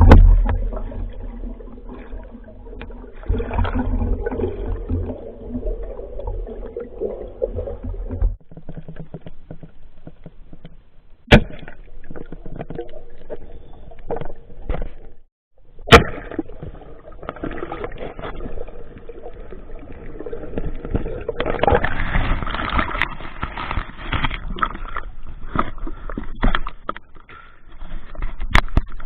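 Water gurgling and sloshing around a spearfisher's camera, muffled, with a low rumble for the first several seconds and two sharp knocks, one about eleven seconds in and one about sixteen seconds in.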